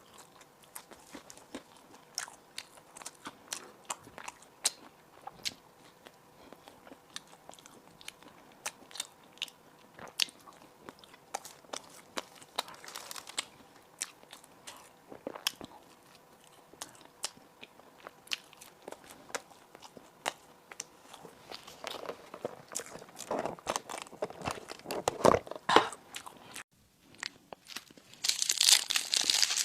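Close-miked eating: crisp crunching bites and chewing of toasted bread and burger, a steady run of sharp crackles that grows louder and denser a few seconds before the end. A short loud rustle comes in near the end.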